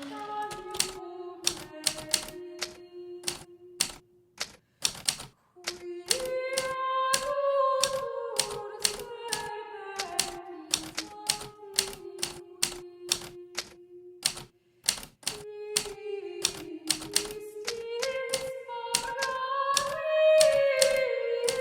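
Hermes Baby manual typewriter keys striking in an irregular run of sharp clacks, a few a second, over a slow, gentle melody of background music that stops for about two seconds near the start.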